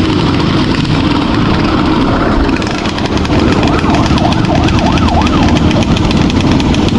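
Enduro motorcycle engine running on the trail, its pitch rising and falling in several quick revs in the second half, over a constant rumble of engine and wind noise.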